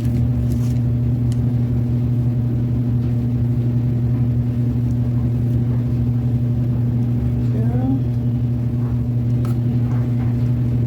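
A steady low electrical hum that does not change pitch or level, with a few faint clicks over it.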